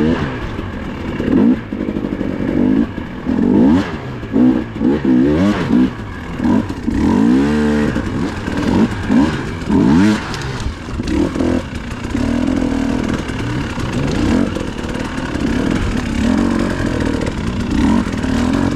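Dirt bike engine being ridden, its revs rising and falling again and again as the throttle is worked, with a sharp climb in pitch about two-thirds of the way through.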